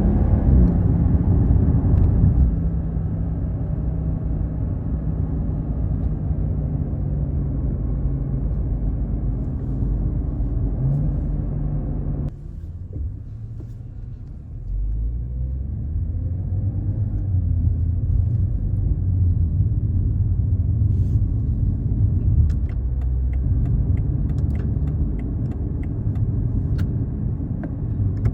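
BMW 540i's B58 turbocharged 3.0-litre inline-six running through an ARP aftermarket exhaust as the car drives under load. Its sound drops off suddenly about twelve seconds in, stays quieter for a couple of seconds, then climbs and pulls steadily again.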